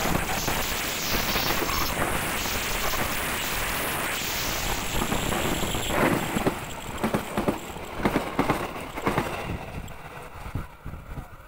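A passenger train's coaches rushing past close by at speed: a loud, steady rushing noise from the wheels and bodies. From about six seconds in it turns into a run of clacks from the wheels crossing rail joints as the last coaches go by, then fades as the train moves away near the end.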